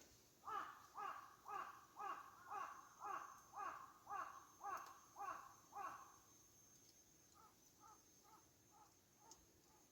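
A bird calling in a quick, even series of about ten harsh calls, each about half a second apart, followed near the end by a fainter series of shorter calls.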